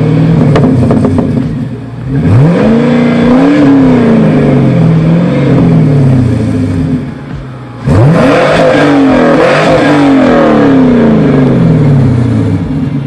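Fourth-generation Chevrolet Camaro's engine being revved through its dual exhaust while parked: a rev held at the start, then two sharp blips about two seconds and eight seconds in, each climbing fast and falling slowly back toward idle.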